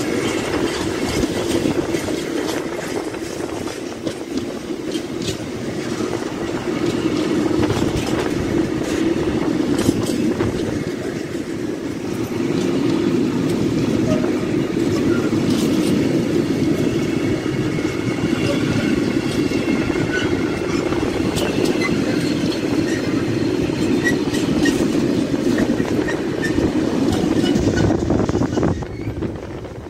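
A freight train of bogie tank wagons rolling past at close range: a steady rumble of steel wheels on rail, with clicks as the wheels cross rail joints. There are faint high steady tones in the second half, and the noise falls away near the end.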